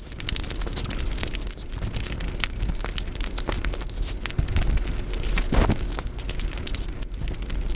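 Close-miked eating sounds of Indian sweets sped up five times: chewing and mouth smacks run together into a dense, continuous crackle of fast clicks, with one sharper click a little past the middle.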